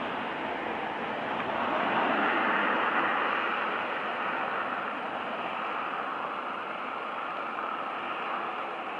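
Steady rushing noise of a train running away into the distance, swelling slightly about two seconds in and then slowly fading.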